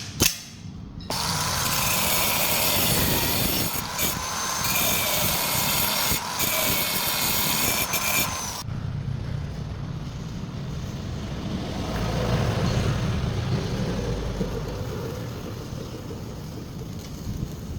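Tool work on a damaged battery terminal: a small power tool runs with a wavering whine for about seven seconds and stops suddenly, then a lower rubbing, scraping sound goes on.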